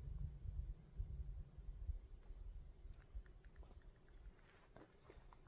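Steady high-pitched chorus of insects, such as crickets, chirring without a break, with low rumbles over the first two seconds.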